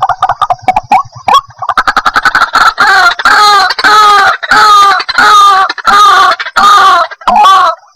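White-breasted waterhen calling: a quick run of short notes that builds into loud, repeated croaking 'kru-ak' calls, about one and a half a second. This is the call used as a lure to draw wild birds in.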